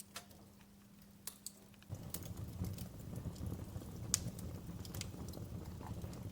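Wood fire crackling and popping, with sparse sharp snaps at first; about two seconds in a low rumble of burning flames starts up and the crackling thickens, with the sharpest pop about four seconds in.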